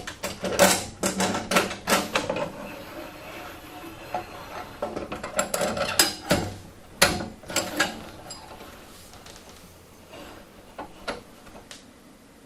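Metal parts and hand tools clanking and clicking as go-kart parts are fitted, in irregular clusters of sharp knocks that thin out and grow fainter in the second half.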